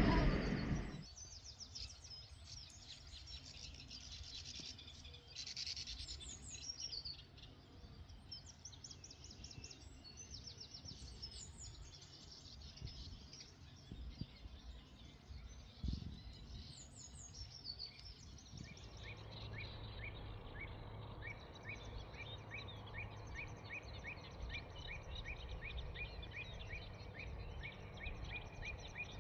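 Small songbirds singing and chirping: quick high phrases in the first part, then from about two-thirds of the way in a long run of short repeated notes, two or three a second, over a faint low steady hum.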